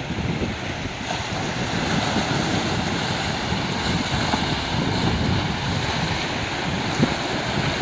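Ocean waves washing on a rocky beach, a steady surf wash that swells gently, with wind buffeting the microphone.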